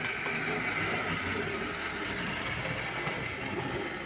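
HO-scale model locomotive running along its track: a steady whir of its small electric motor and the wheels on the rails. The 50-year-old engine is running on an O-ring fitted in place of its worn rubber traction tires.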